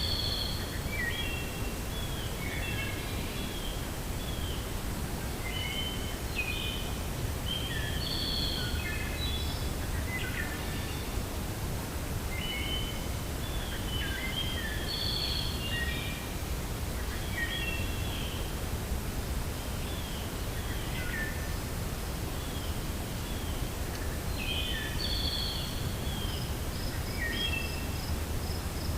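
Several songbirds chirping and calling in short, repeated phrases over a steady low rush of wind. Near the end, a fast, even, high-pitched trill starts up.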